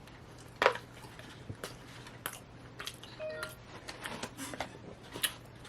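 Close-up eating mouth sounds: irregular wet clicks and smacks of chewing, the loudest about half a second in.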